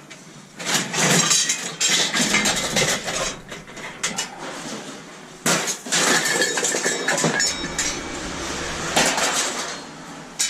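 Scrap metal clanking and rattling as pieces are handled and pulled apart, with many sharp knocks.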